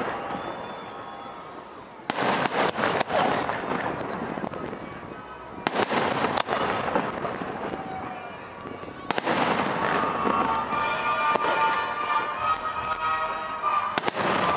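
Fireworks display: aerial shells bursting, four sharp bangs a few seconds apart, each trailing off into a fading crackle.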